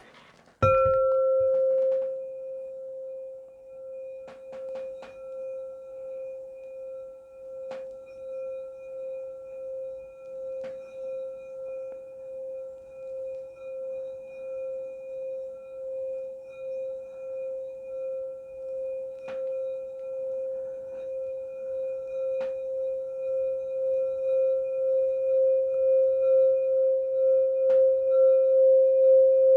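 Large singing bowl struck once, then its single steady tone rings on with a pulsing waver, swelling gradually louder toward the end. A few faint clicks sound now and then.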